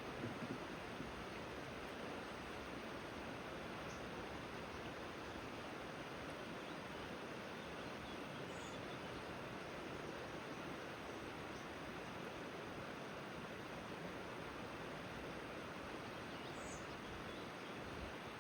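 Steady rushing of flowing river water, even and unbroken, with two faint, brief high chirps, about halfway through and near the end.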